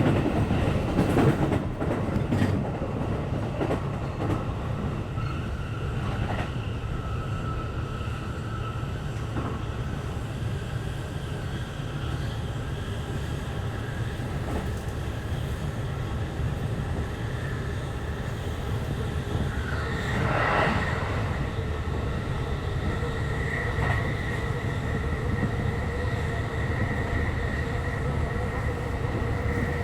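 E531-series electric train running at speed, heard from inside the passenger car: a steady rumble of wheels on rail with a few rail-joint clicks in the first seconds. A steady high whine sets in during the second half, and there is a brief louder rush a little past two-thirds of the way through.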